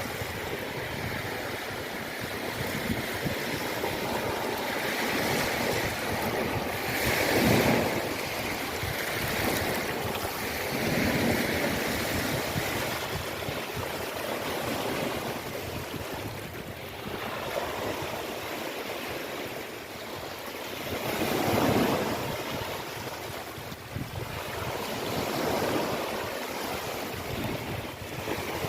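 Ocean waves washing in, the rush of surf swelling and falling back every few seconds, loudest about seven and twenty-one seconds in.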